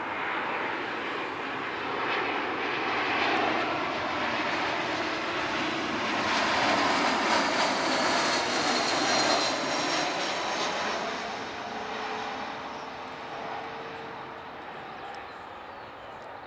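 Airbus A320 airliner's twin jet engines as it passes low on approach to land, the noise swelling to its loudest about seven to nine seconds in and then fading as it moves away, with a faint whine dropping in pitch as it goes by.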